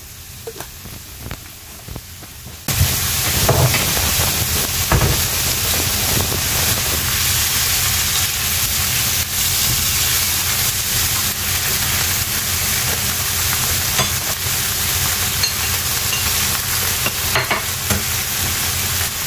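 Baby squid and onions sizzling in a nonstick frying pan, stirred now and then with a silicone spatula that scrapes across the pan. The sizzle is quieter for the first few seconds, then jumps louder and holds steady.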